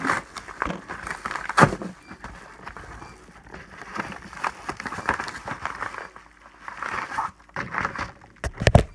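Cardboard shipping box being handled and opened: irregular rustling and scraping of cardboard and packaging, with a few sharp knocks, one about a second and a half in and a couple near the end.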